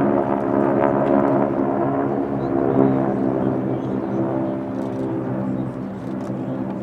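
North American Harvard trainers' Pratt & Whitney R-1340 Wasp radial engines and propellers running. The note is steady and many-toned and gets somewhat quieter in the second half.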